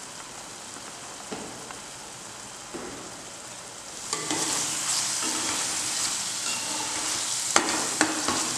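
Onion, chilli and mint paste sizzling in hot oil in a pan, quietly at first. About four seconds in a spatula starts stirring it, and the sizzle grows louder with scraping against the pan and two sharp knocks near the end.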